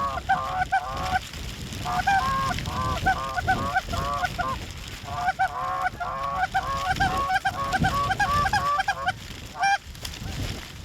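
Geese honking in rapid runs of honks, three bouts with short gaps and a single honk near the end, over a low rumble of wind.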